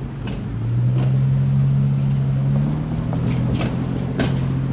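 Diesel locomotive of a Union Pacific coal train passing close by, its engine drone swelling about a second in and dropping slightly in pitch a little under three seconds in as it goes past. Sharp irregular clacks of steel wheels over the rails sound over it.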